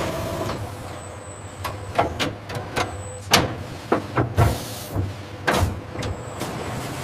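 Scrap-metal processing machinery working: irregular sharp clanks and knocks of metal, about a dozen, over a steady machine hum.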